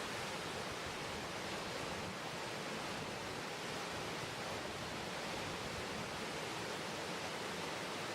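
Steady roar of water rushing down a creek's rapids and waterfalls, even and unbroken throughout.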